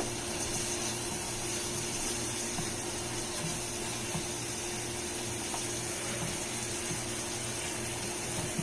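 Chunks of chicken breast sizzling in oil in a frying pan: a steady, even hiss with a constant low hum under it and a few light clicks.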